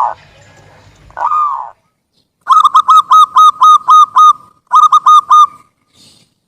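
Zebra dove (perkutut) cooing: a drawn-out arched note, then a fast run of about ten short, evenly spaced coos, a brief break, and four more.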